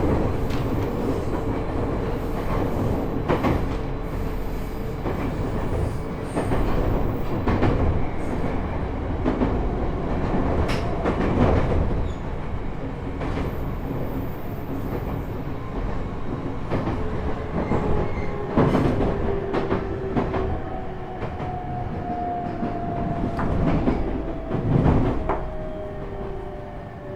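Interior running noise of the JR East E127 series EMU's motor car KuMoHa E127-11 slowing on the approach to a station: wheels clicking over rail joints, and thin gear and motor whine tones that slowly fall in pitch through the second half as the train brakes. This car is known for an abnormal gear whine, with an extra tone a semitone above the usual minor-seventh whine.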